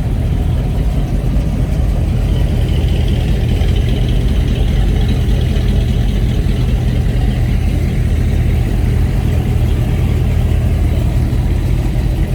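Vehicle engine idling steadily close by, with a higher hiss over it for several seconds in the middle.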